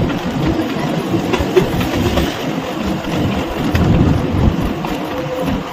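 Bhakra–Nangal train running along the track, heard from an open coach window: a steady rumble of wheels on rails with a few scattered clacks and rattles.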